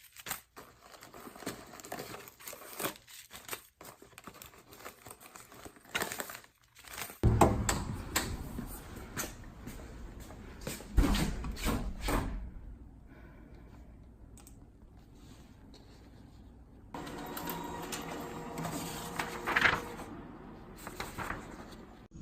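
Handling noises from packing a suitcase: irregular clicks, knocks and rustles as items are moved and put in, with a low rumble underneath through the second half.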